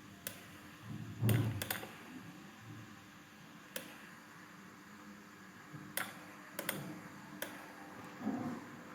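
Scattered sharp clicks of a computer mouse and keyboard, about nine in all, some coming in quick pairs, over faint room noise.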